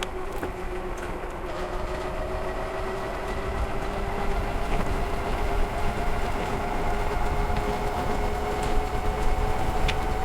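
Tuttio ICT 2.0 electric dirt bike's hub motor whining under way, its steady whine slowly rising in pitch as the bike picks up speed, over a low rumble.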